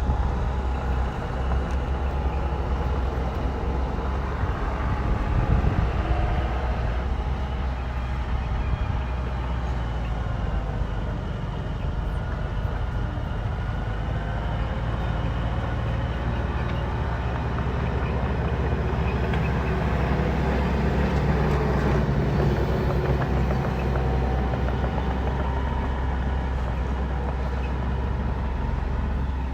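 Bulldozer's diesel engine running steadily under load, a deep rumble whose pitch rises and falls a little as the machine works.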